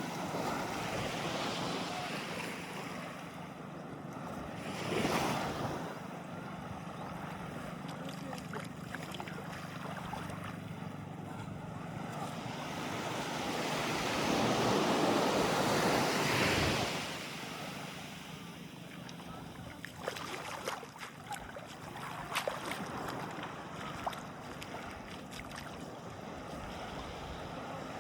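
Sea waves washing in over the shore, with wind on the microphone. A short surge comes about five seconds in and a longer, louder wash about halfway through, followed by a few scattered sharp ticks.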